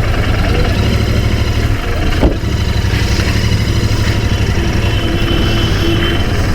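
Royal Enfield Continental GT 650's 648 cc parallel-twin engine idling steadily while stopped at a traffic signal, with a single sharp click about two seconds in.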